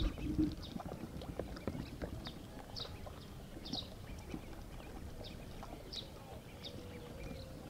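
Ducklings peeping: short, high, slightly falling peeps at irregular intervals of about a second. Underneath is a low clatter of small knocks and water noise.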